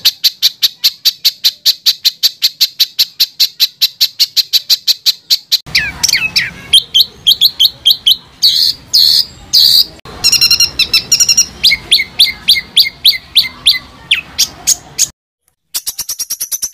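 Songbird song made of rapid runs of short, sharp repeated notes, the fast harsh bursts that bird keepers call 'tembakan'. The first run goes at about eight notes a second. The phrase changes abruptly twice, then breaks off for a moment before another fast run near the end.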